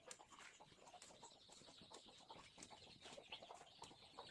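Near silence: faint outdoor ambience with distant bird calls and a few small clicks.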